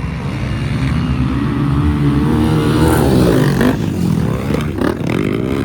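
Motocross motorcycle engine revving under throttle, its pitch climbing and then dropping sharply a couple of times with throttle and gear changes.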